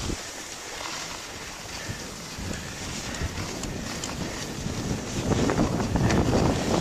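Wind buffeting the microphone while skiing downhill, a steady rush that turns louder and gustier about five seconds in.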